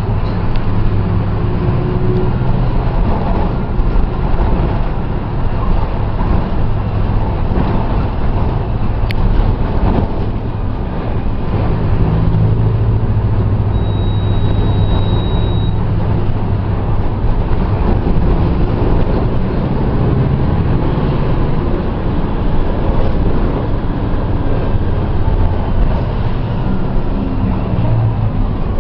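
Mercedes-Benz OF-1722M bus's diesel engine running steadily, with a brief high-pitched beep about halfway through.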